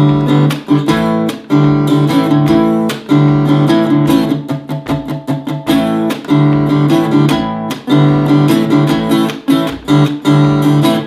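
Acoustic guitar strumming an A5 power chord in a repeating down-down-up-up-down-up campfire pattern, with short muted percussive strokes worked into the rhythm.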